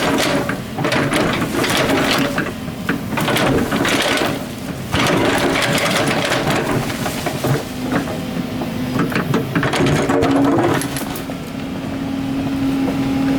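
Excavator's diesel engine running under working load, its pitch rising and falling as the hydraulics work, with repeated scraping and clattering bursts of the bucket digging earth and rock.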